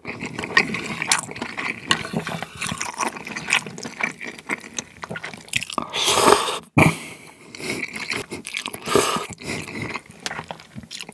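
Close-miked slurping and wet chewing of cold buckwheat soba noodles in chilled broth, with louder slurps about six and nine seconds in. Near the end, a short cough as seaweed flakes catch in the throat.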